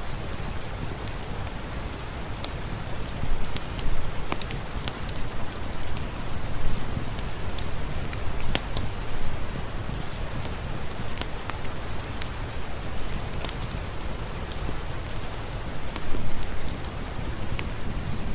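Steady heavy rain falling with a dense hiss, with many scattered sharp ticks of drops striking a surface.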